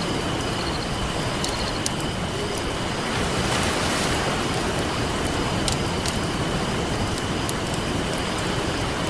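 Ocean waves washing on a beach, one swelling up about three seconds in, with a campfire crackling and popping sharply every second or so over the top.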